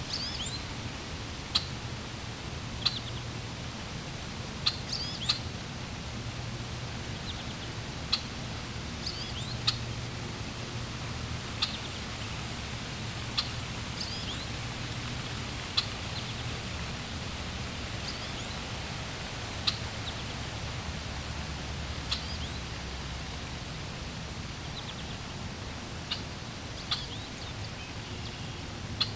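Steady flowing water with small birds chirping over it: short, sharp chirps every second or two, standing out above the water's even rush.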